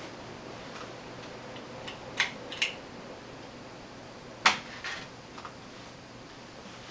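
1987 SMC CA52 ceiling fan running on medium speed, about 140 RPM, with quiet bearings and a little audible hum from its bent brackets. A few sharp clicks stand out, the loudest about four and a half seconds in.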